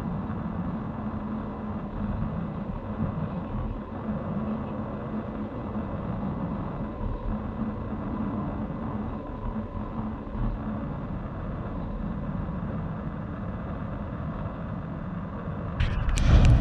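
Freight train rolling past: a steady rumble and rattle of railcar wheels on the rails. Near the end a sudden louder rush of noise with sharp clicks comes in.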